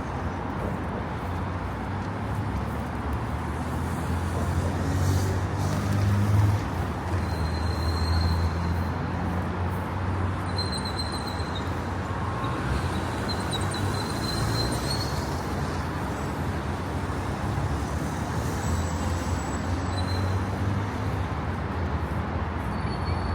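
Steady city street ambience: a low rumble of passing road traffic that swells briefly a few seconds in, with a few faint high tones now and then.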